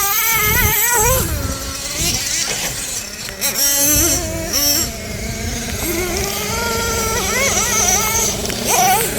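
Small nitro engines of radio-controlled monster trucks running hard, their high pitch rising and falling as the throttle is worked, with a few quick revs near the end.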